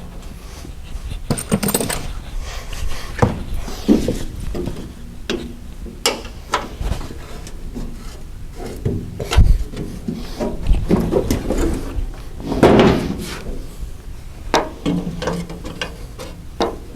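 Irregular knocks, clinks and scraping of hand tools and loose metal parts being handled while a tractor's tin work is taken apart. No engine or machine is running.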